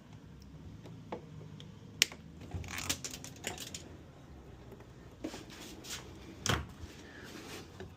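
Scattered clicks, knocks and short scrapes of parts and tools being handled during a washing machine repair, with sharper knocks about two seconds in and again near six and a half seconds.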